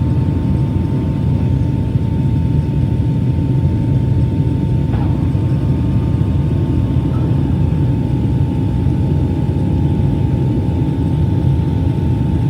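Airplane engines running with a steady, loud low drone and a constant high whine laid over it.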